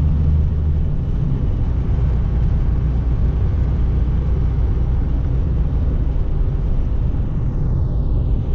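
Semi-truck driving on a country road, its diesel engine and road noise heard as a steady low rumble from inside the cab; the deepest engine note eases about a second in.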